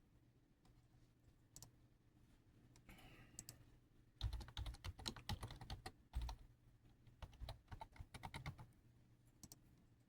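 Typing: irregular key clicks in quick clusters, busiest through the middle, over a faint steady hum.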